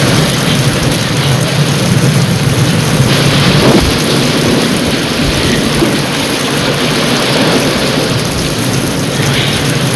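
Rain falling steadily in a dense, even hiss, with a low rumble of thunder underneath.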